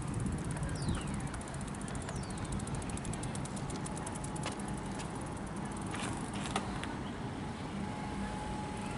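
Comeng electric suburban train pulling into the platform: a steady low rumble, two falling whines in the first few seconds, and a fast run of light ticks that slows and fades about six seconds in as the train comes to a stop.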